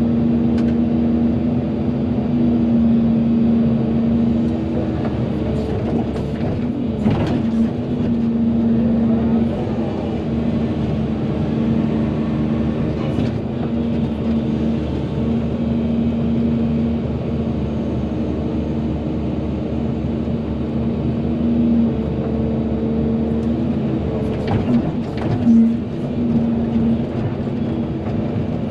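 Volvo EC220DL excavator's diesel engine running steadily under working load, a constant hum. A few short knocks come through it, about seven seconds in, around thirteen seconds and again near the end.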